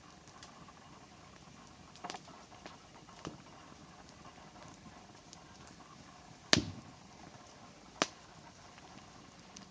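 Wood campfire crackling: a few scattered sharp pops over a faint steady background, the loudest about two-thirds of the way through.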